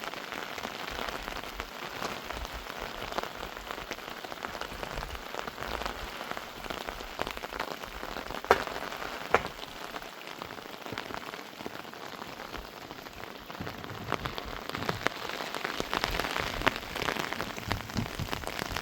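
Steady rain falling, with many small drop impacts and two sharper taps about halfway through.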